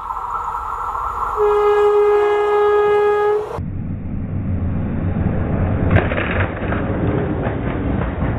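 Electric locomotive's horn sounding one long blast, then the train rumbling past close by on the rail, with a sharp crack about six seconds in and a run of clacks as the wheels roll over the line and the objects laid on it.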